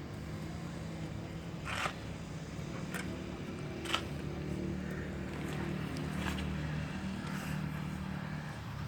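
A motor running steadily with a low hum, with a few short, sharp scrapes or knocks scattered through it.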